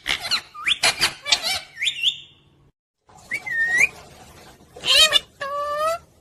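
Pet parrot chirping and squawking in short, whistly calls that slide up and down in pitch. The calls break off briefly about halfway through, then resume with a gliding call and a couple of sharp squawks.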